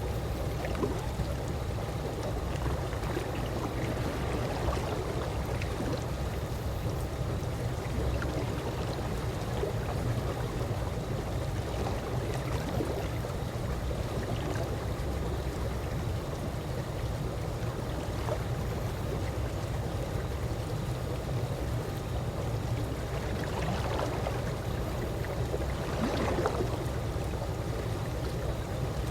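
Calm pool water lapping in a steady, even wash, with small splashes scattered through it and two slightly louder ones about 24 and 26 seconds in.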